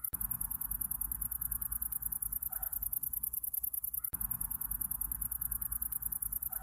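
Night insect chorus of crickets chirping in a rapid, steady, high-pitched pulse over a low rumble. A brief mid-pitched call recurs every four seconds, as the ambience recording loops.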